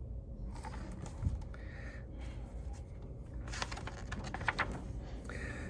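A picture book being handled and its page turned: a few soft clicks and rustles, thickest about four seconds in, over a low steady hum.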